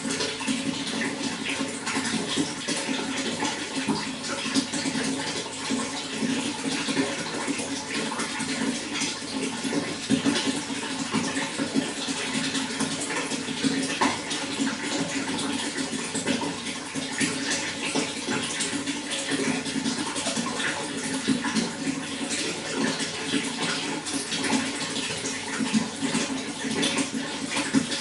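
Running water flowing steadily, with a continuous splashing and bubbling that does not let up.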